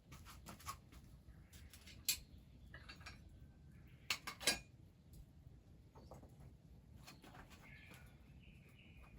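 Light clinks of dishes and utensils: a sharp click about two seconds in and a quick cluster of three about four seconds in, with faint bird chirps near the end.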